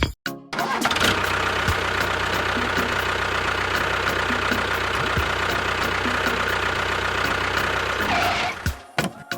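An engine starts and runs steadily, then cuts off near the end.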